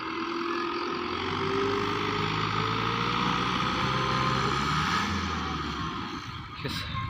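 Fiat 640 tractor's diesel engine running, its pitch rising steadily as it speeds up from about a second in, then easing back after about five seconds. A single sharp click comes near the end.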